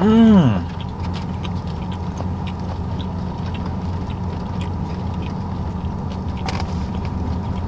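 A short hummed 'mm' that rises and falls in pitch at the start, then chewing with small scattered mouth clicks over the steady low hum of the car's interior.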